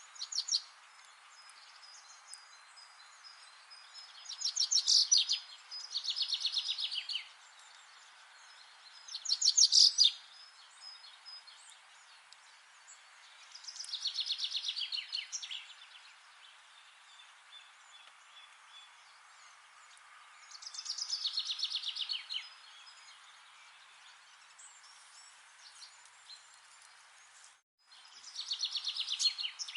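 A songbird singing a rapid trill of high notes that drops slightly in pitch, each phrase lasting one to two seconds and repeated about every four to seven seconds, over a steady soft hiss of forest ambience. Near the end the sound cuts out completely for an instant.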